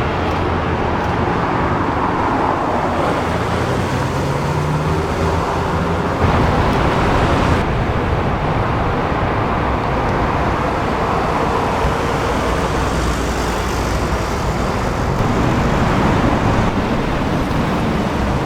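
Steady traffic noise from cars, with engines running at low, even revs and no hard acceleration.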